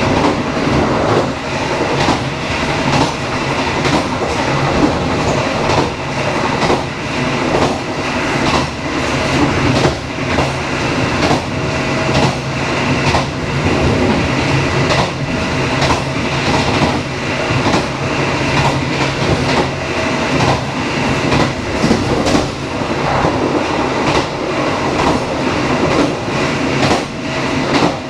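Dharmawangsa passenger train running along the track: a steady rumble of wheels on rails, with many small clicks from the track going by.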